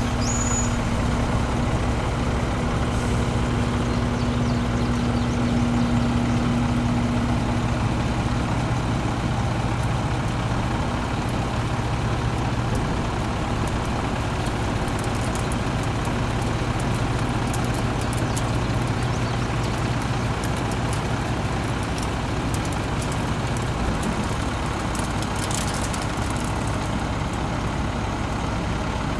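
International 7400 grain truck's DT 530 turbo-diesel straight-six idling steadily.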